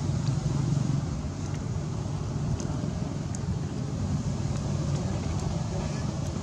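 Steady low background rumble, with faint high ticks now and then.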